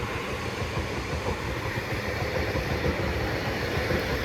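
Class 331 electric multiple unit pulling away from the platform: a steady running noise with a low rumble and a faint steady hum.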